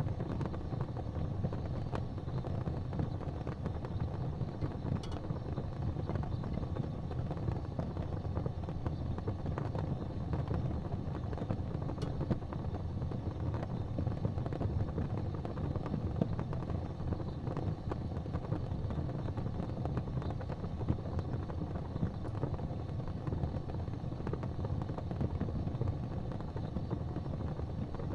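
Wood fire burning in a fireplace: a steady low rumble of flames with occasional small crackles and pops.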